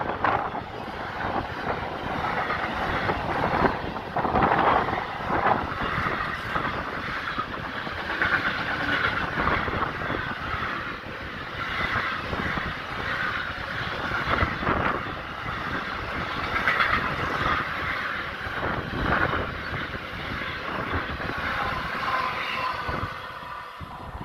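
Container freight train's wagons rolling past close by: a steady rumble of wheels on rail with repeated knocking clatter. The low rumble drops off near the end.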